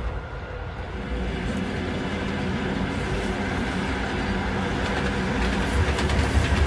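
A train's steady low rumble with a low engine drone that grows somewhat louder toward the end.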